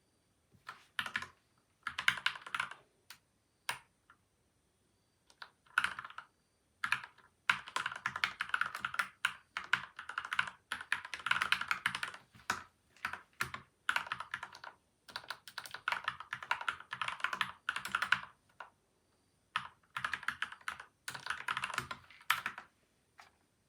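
Typing on a PCL87 mechanical keyboard with lubed switches and stabilizers and tape and foam mods: fast runs of keystrokes in bursts, broken by short pauses of a second or so.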